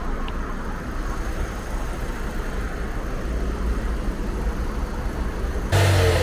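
A 2007 car's engine idling steadily, left running so its newly fitted alternator can charge the flat battery. Near the end a louder rushing noise comes in suddenly over it.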